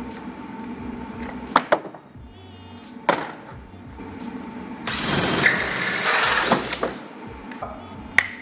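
Electric drill running in one burst of about a second and a half, with a few sharp knocks on wood before and after, over faint background music.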